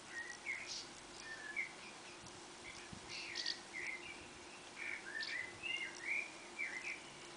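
Songbird chirping in short, varied notes, sometimes several in quick succession, over a faint steady low hum.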